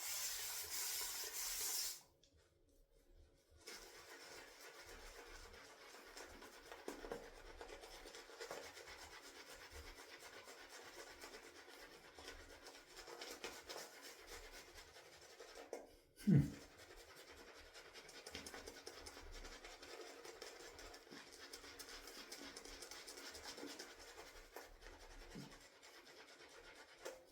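Shaving brush working dense shaving-soap lather in a bowl: a soft, steady scratchy swishing. It pauses briefly about two seconds in, and there is a single knock a little past the halfway point.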